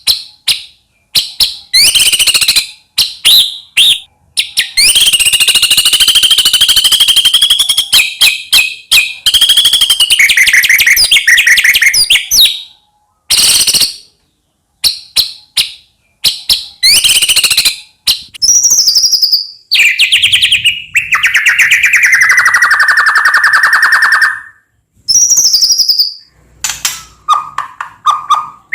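White-rumped shama (murai batu) singing a loud, varied song: phrases broken by short pauses, long runs of rapid chattering notes, and clear whistles that slide up and down in pitch.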